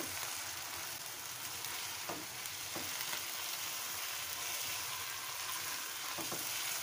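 Chicken pieces with crushed garlic sizzling in hot oil in a nonstick karahi while being stirred and turned with a spatula, with a few spatula scrapes against the pan.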